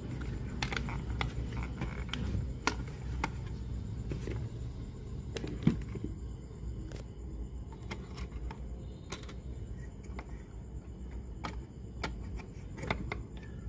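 Scattered small clicks and taps of tools and small parts being handled at a workbench, over a steady low hum.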